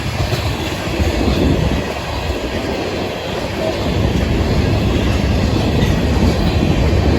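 Freight cars of a Florida East Coast Railway train rolling past on the rails: a steady rumble of steel wheels on track.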